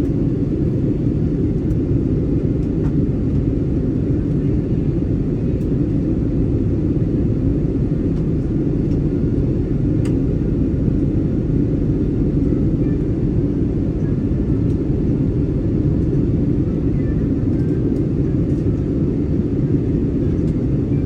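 Steady low rumble of an Airbus A320-200's passenger cabin before take-off, with a few faint clicks.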